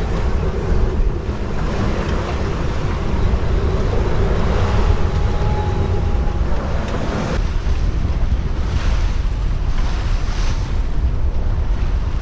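Strong wind buffeting the microphone over the rush of breaking seas around a small sailing yacht in about 25 knots of wind. A surge of rushing water swells in the middle, changes abruptly about seven seconds in, and further surges come near the end.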